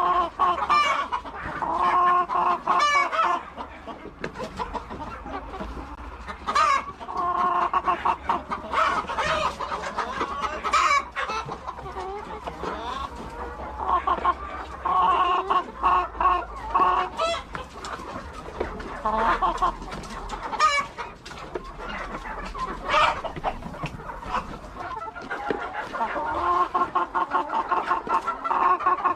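A flock of laying hens clucking, with many overlapping calls going on throughout.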